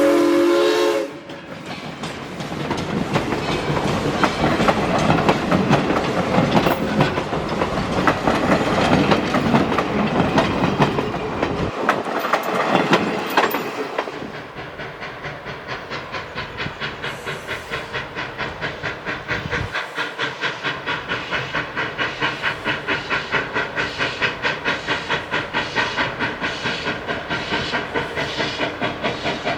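Arcade & Attica 2-8-0 Consolidation steam locomotive #18 running with a train: a steam whistle blast cuts off about a second in, then the loud rush of the train working by, which settles about halfway into a steady rhythmic beat of roughly three a second.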